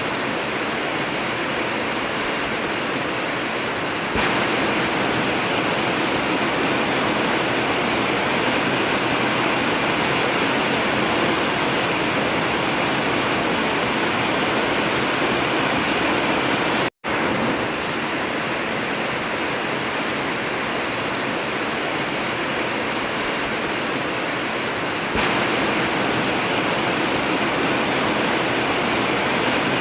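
Heavy rain falling steadily on a tin roof, an even hiss with no thunder. It gets a little louder about four seconds in, cuts out for an instant just past the middle, and gets louder again near the end.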